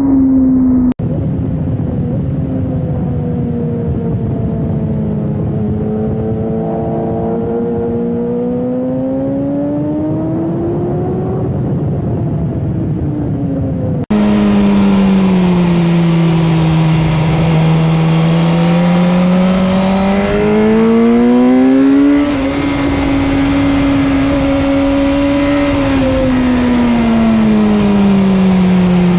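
Sport motorcycle engine heard onboard at speed on a racetrack, its note slowly rising as the rider opens the throttle and falling as he rolls off through the corners. The sound changes abruptly twice, about a second in and about halfway through, where recordings from different onboard cameras are cut together.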